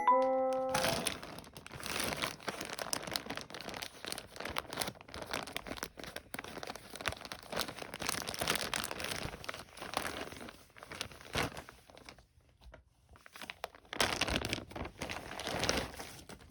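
Irregular crinkling and rustling, like wrapping or packaging being handled, with a short pause about three quarters of the way through before one more stretch.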